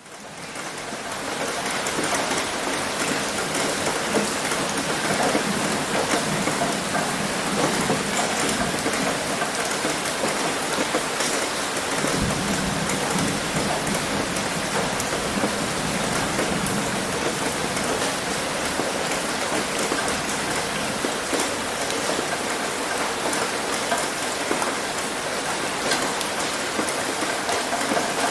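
Heavy rain pattering on a roof, a dense steady hiss of drop impacts that fades in over the first couple of seconds. A low rumble swells under it for a few seconds around the middle.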